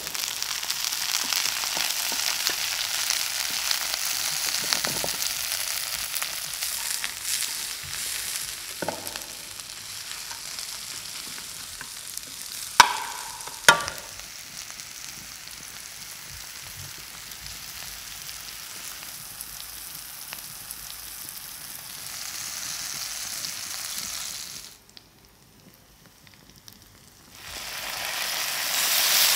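Food frying and sizzling in a hot pan, a steady crackling hiss, with two sharp clinks about halfway through. Near the end the sizzling cuts out for about two seconds, then comes back louder.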